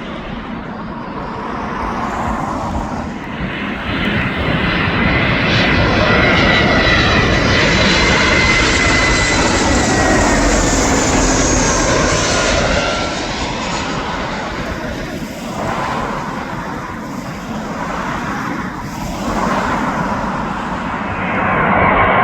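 Large jet airliner passing low overhead on final approach with its engines running. The noise builds to a peak partway through, with a whine that falls in pitch as it goes by, then eases off.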